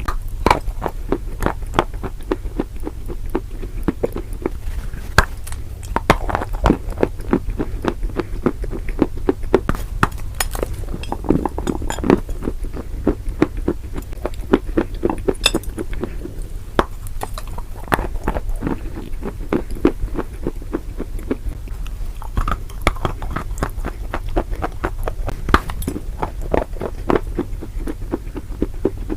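Close-miked chewing and crunching of crunchy food, with dense rapid crackles and snaps throughout over a steady low hum.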